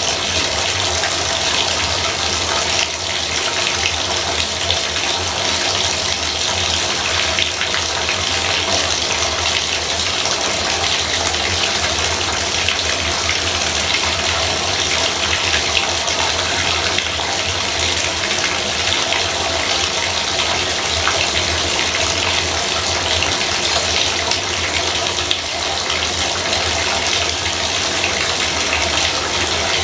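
Bathtub faucet running water: a steady, loud rush of water from the tap, without a break.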